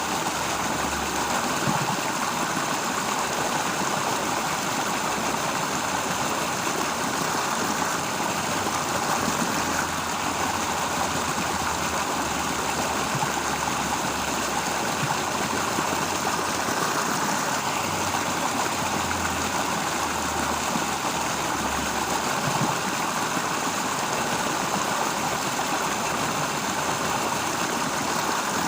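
Steady outdoor countryside ambience: an even rushing hiss with no distinct events, over a faint low rumble that swells and fades.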